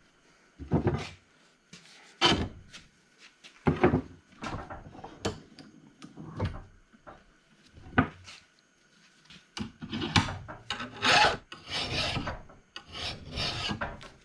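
Hand file scraping along the edge of a steel lawnmower blade: single strokes with pauses at first, then a quicker run of strokes near the end. The filing is knocking down high spots and nicks left by rock strikes.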